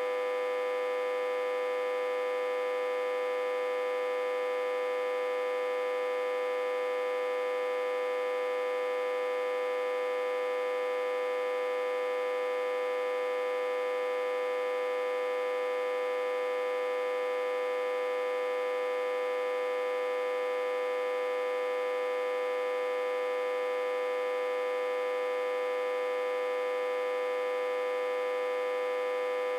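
Autotransformer humming steadily, with one strong tone and many overtones above it, reverse-connected to a step-down transformer with about 60–80 V on its input.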